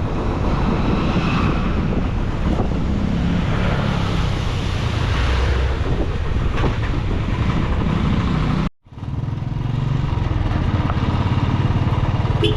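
A motor vehicle's engine running steadily with road and wind noise, heard on board while riding. The sound cuts out abruptly for a moment about nine seconds in, then picks up again.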